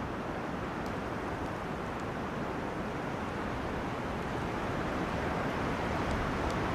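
Wind blowing through forest trees: a steady rushing noise that swells slightly toward the end, with a few faint high ticks.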